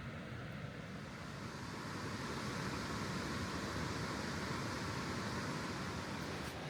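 Steady rushing of river water tumbling over a stepped, uneven riverbed, a little louder from about two seconds in.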